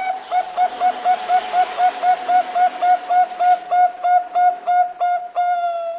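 Zebra dove (perkutut bangkok) calling: a rapid series of about twenty short, clear cooing notes, about four a second, ending in one longer held note.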